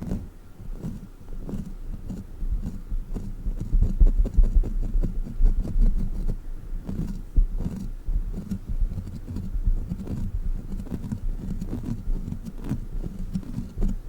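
Sticky rubber crawler toy worked close to the microphone: a fast, irregular run of small sticky taps and peeling clicks over low handling thuds.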